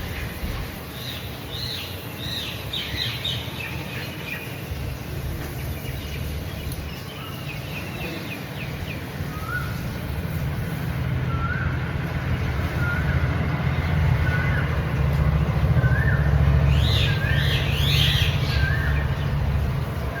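Birds chirping: a short repeated call about every second in the second half, with clusters of higher chirps near the start and near the end. Underneath is a low steady rumble that grows louder toward the end.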